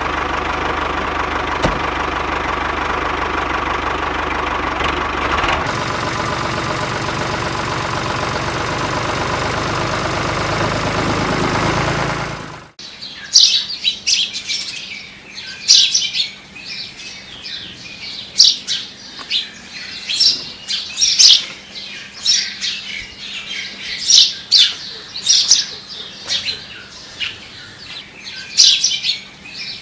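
For about the first twelve seconds, a loud, dense, steady sound that cuts off abruptly. Then birds chirping over and over in short, bright calls, with a faint steady hum beneath.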